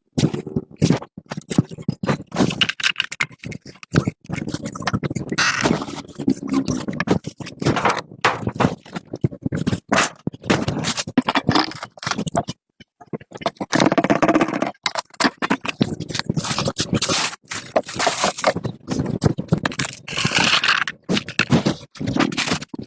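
Repeated, irregular scraping and rubbing strokes, with brief pauses between runs of strokes.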